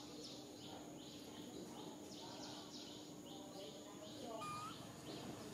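A small bird chirping over and over, short high chirps two or three times a second, with one brief rising call about four and a half seconds in.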